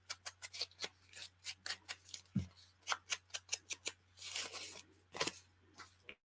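Scissors cutting paper in a quick run of short snips, about three a second, with a brief rustle of the paper being handled partway through.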